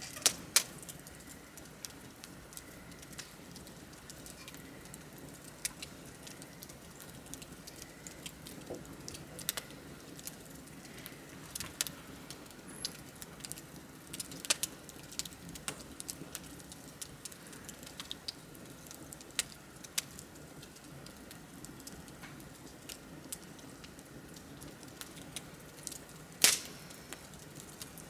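Wood bonfire crackling: irregular sharp pops and snaps over a low, steady flame hiss, with two louder pops, one just after the start and one near the end.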